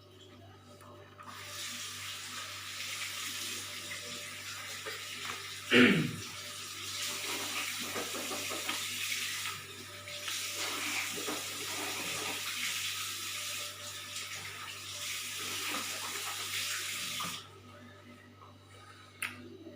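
Water running steadily from a tap, with two brief breaks, and one loud knock about six seconds in.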